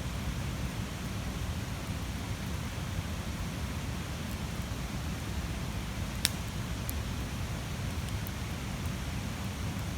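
Large campfire burning with a steady low roar of flames and a few sharp pops of wood crackling, the loudest about six seconds in.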